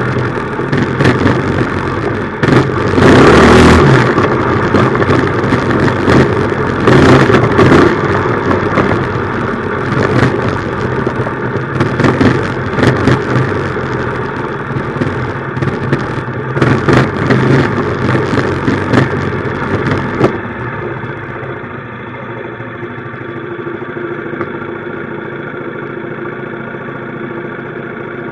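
A minibike's small engine running under way, its pitch rising and falling, with loud rushing noise coming and going over it. About 20 seconds in, the sound changes abruptly to a quieter, steadier engine note.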